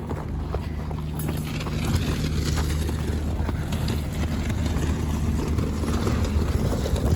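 Motor vehicle engine running steadily, a low hum that grows a little louder about two seconds in.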